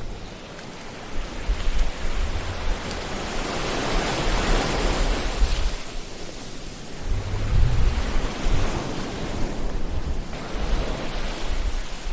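Ocean surf: a steady wash of breaking waves that swells to a peak about four to five seconds in, then builds again with a deep rumble near eight seconds.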